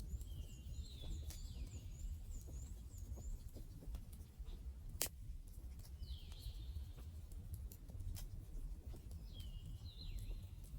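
Wood fire burning with a low steady rumble and scattered sharp crackles, one loud pop about halfway through. A bird sings a short phrase three times, with a run of quick high chirps in the first few seconds.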